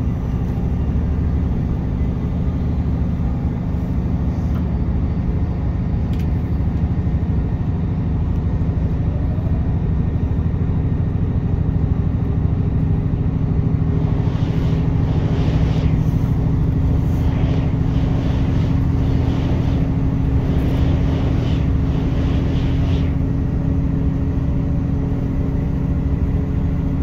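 Class 158 diesel multiple unit heard from inside the passenger saloon at speed: a steady drone from its underfloor diesel engine, with wheel and rail noise. About halfway through, a train passing on the next track adds a rushing, beating noise that lasts about nine seconds and then fades.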